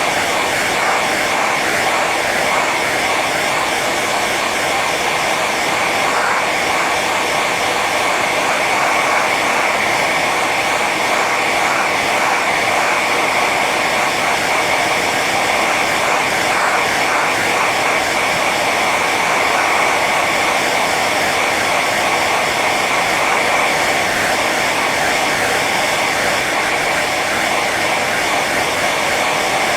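Hair dryer running steadily on its high setting: an even rush of blown air with a whine from the motor and fan.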